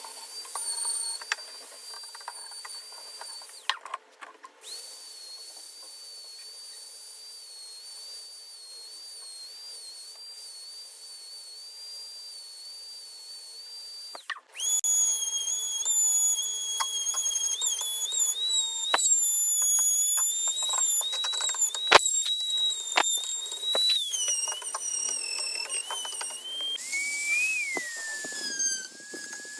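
Small high-speed electric power tool running with a steady high whine, briefly stopping about 4 seconds in. It stops again about halfway, then restarts louder and lower-pitched, its pitch wavering with scattered clicks, and drops lower near the end.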